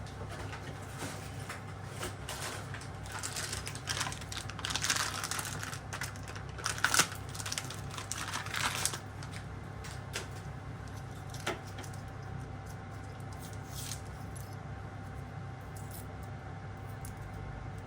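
Light clicks, taps and short rustles of small hard objects being handled, busiest from about three to nine seconds in, with a few single clicks later. Under them runs a steady low hum.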